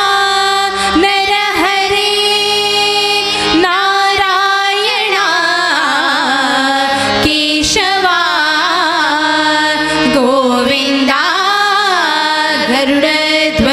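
Women's bhajan group singing a devotional bhajan, drawing out a long wavering melodic line over a steady held accompaniment, with a few sharp percussion strokes.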